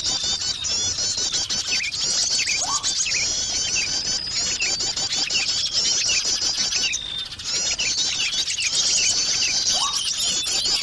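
Bird-luring recording of small songbirds: a dense chorus of rapid high chirps, twitters and trills, meant to draw small birds in. The same phrases come round again about every seven seconds, with a brief lull a little past the middle.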